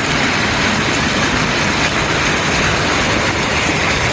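Heavy hail pelting down, a loud, dense, unbroken noise.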